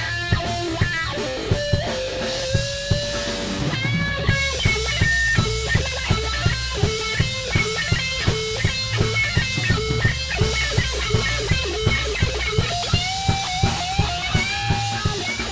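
Rock band music without vocals: electric guitar lines over bass and a steady drum beat.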